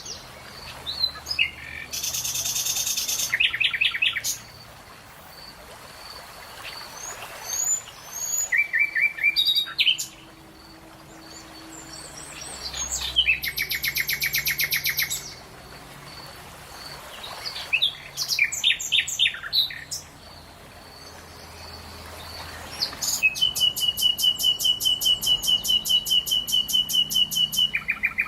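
Songbirds singing outdoors in a series of separate chirping and trilling phrases. Near the end comes a long, rapid trill of about eight even notes a second.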